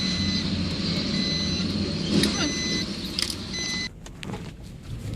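Car cabin noise while driving: a steady engine hum and road rumble with a few light clicks, dropping off sharply about four seconds in.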